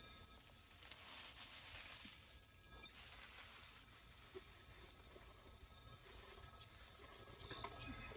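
Faint rustling of dry leaves and lavender sticks being handled and packed into a beekeeper's smoker, with a few faint bird chirps in the second half.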